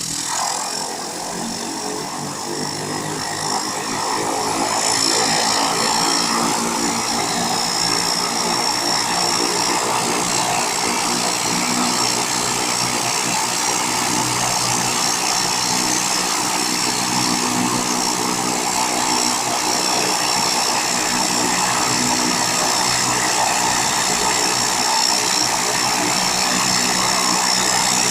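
Small propeller plane's engine running steadily, growing louder about four seconds in and then holding at a high, even level.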